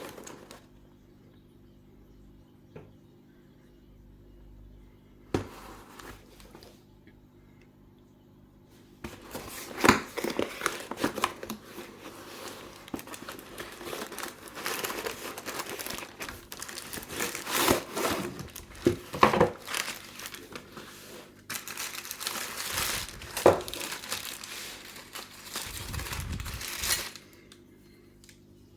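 Packaging crinkling and tearing as a delivered parcel is unwrapped, with sharp clicks and knocks mixed in. After a quiet stretch broken by a few single clicks, the crinkling starts about nine seconds in and stops shortly before the end.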